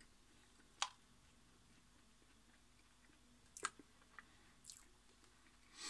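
Faint chewing of a soft shortcake lemon whirl, with a few sharp mouth clicks: one about a second in and several more between three and a half and five seconds.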